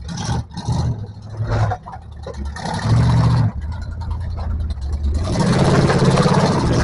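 Off-road 4x4 engine revving in surges under load, the pitch rising and falling. A broad rushing noise builds up over the last couple of seconds.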